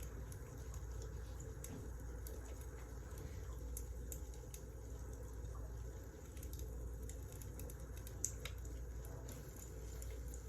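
Wood fire crackling, with scattered small snaps and pops over a low steady rumble, and one sharper pop about eight seconds in.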